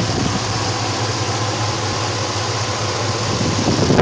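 Dodge Ram pickup's engine idling steadily, heard from the open engine bay.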